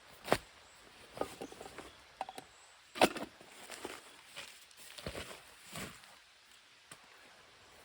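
Footsteps: a string of irregular short crunching steps, the loudest about three seconds in.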